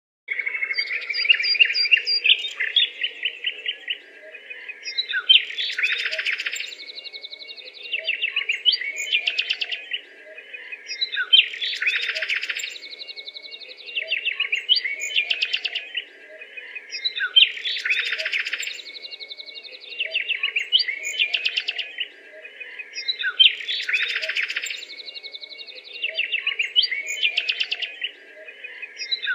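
Small birds chirping and twittering in quick runs of high chirps and trills. It is a loop: the same stretch of calls repeats about every six seconds.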